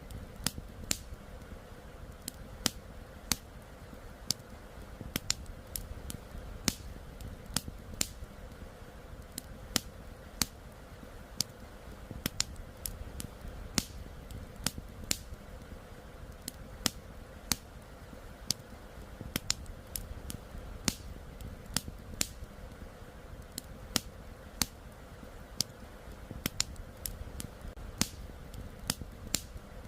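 Wood campfire crackling, with irregular sharp pops and snaps a few times each second over a low steady rumble.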